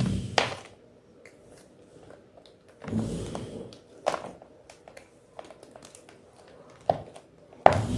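Fresh white gym chalk being crunched and crushed, with sharp crisp cracks about half a second in, at about four seconds, near seven seconds and just before the end, and a longer crumbling crunch about three seconds in.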